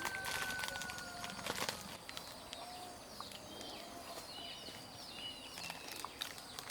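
Birds calling: a long steady whistle in the first second and a half, then short high chirps and whistles, several sliding downward. A few light clicks and knocks are heard among them.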